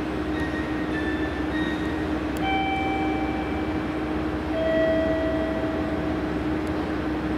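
Steady hum of electric trains at a station platform, with a constant low tone. Two short high squeals come from an arriving train, one about two and a half seconds in and a longer one about four and a half seconds in that slides slightly down in pitch.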